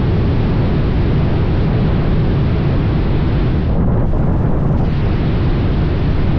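Steady low rumble of wind buffeting the microphone on a moving motorcycle, mixed with engine and road noise.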